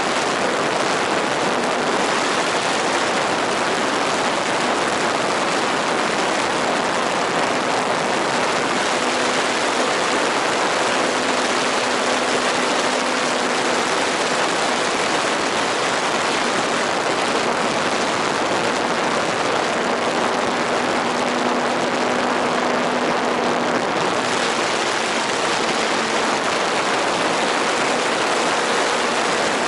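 Steady rushing noise with a faint droning tone from a radio-controlled model airplane's motor that fades in and out a few times.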